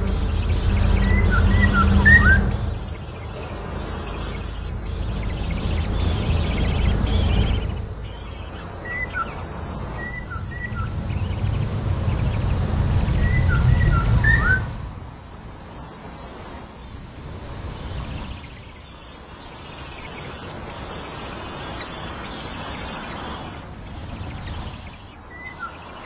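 Short, high bird chirps in a few quick clusters from a black-naped oriole nest, over a loud low rumble that stops suddenly about halfway through. A faint steady high hum runs underneath.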